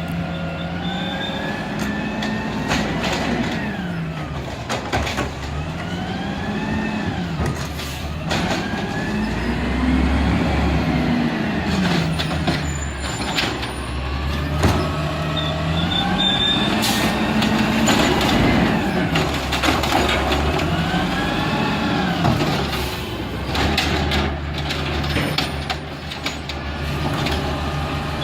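Garbage truck engine revving up and falling back again and again in a repeated cycle, with sharp knocks and clanks scattered through it.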